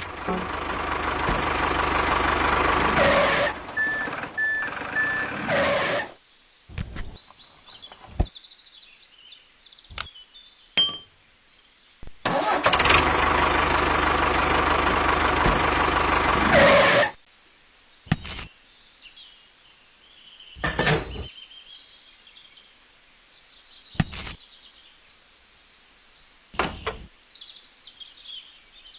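A small motor running in two spells, about six seconds and then about five seconds, each stopping abruptly. In between and afterwards come scattered short clicks and knocks.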